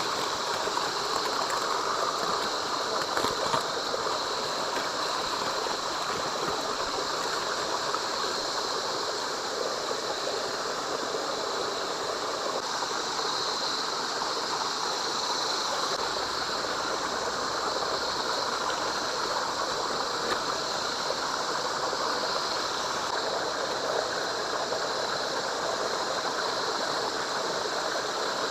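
A stream of running water, a steady even rush that holds unchanged throughout.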